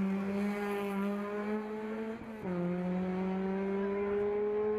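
Hill-climb race car engine accelerating, its pitch climbing steadily; about two seconds in an upshift drops the pitch, and it climbs again.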